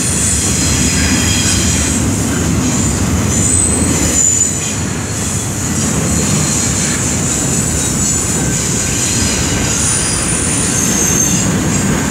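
Double-stack intermodal container train passing: a steady rumble of steel wheels on the rails, with thin, high wheel squeals coming and going.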